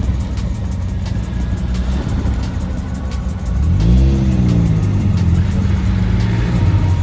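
Car engine running loud and close, revving up sharply about three and a half seconds in and then holding at higher revs.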